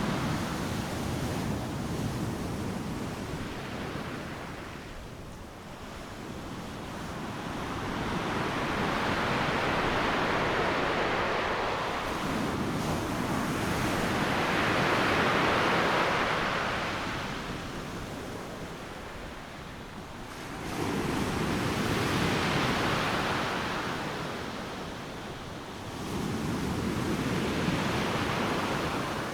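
Ocean waves breaking on a beach: a continuous rush of surf that swells and falls with each wave. The loudest surge comes about halfway through, and two more waves rise abruptly in the last third.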